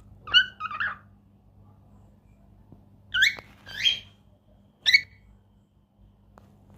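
Small pet parrots giving short, sharp calls: two near the start, then three more between about three and five seconds in.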